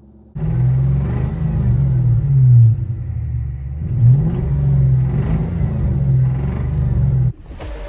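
Car engine running and revving, its pitch falling away and then climbing again partway through. It starts and stops abruptly, as an edited clip.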